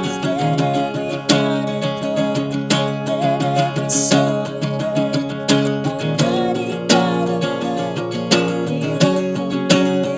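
Acoustic guitar strummed in a steady rhythm, with a strong chord stroke about every second and a half and lighter strums in between.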